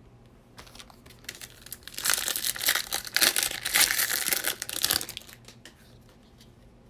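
Foil trading-card pack wrapper being torn open and crinkled, a dense crackle lasting about three seconds, preceded by a few light clicks.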